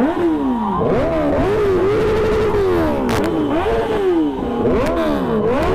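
Kawasaki ZX-10R inline-four with a loud aftermarket exhaust, revved repeatedly: the engine note rises and falls back roughly once a second. One sharp crack about three seconds in.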